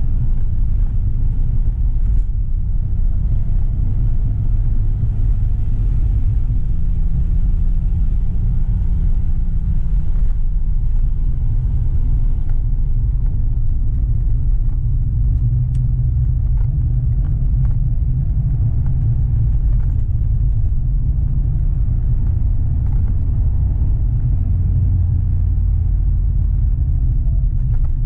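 1989 Porsche 911 Targa with G50 gearbox heard from inside the cabin while driving: its air-cooled flat-six makes a steady low rumble mixed with road noise, the engine pitch shifting slightly a few times.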